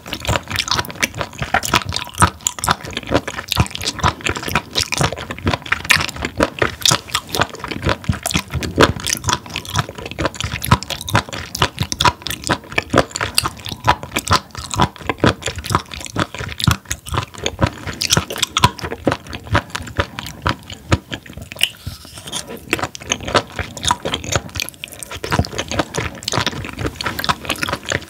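Close-miked chewing of raw spoon worm (gaebul), a continuous stream of wet, crunchy bites.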